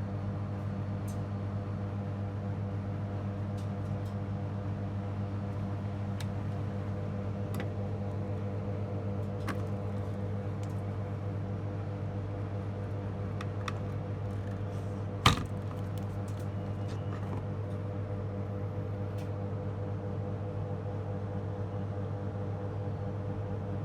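Steady low electrical hum with scattered faint clicks and one sharp click about fifteen seconds in.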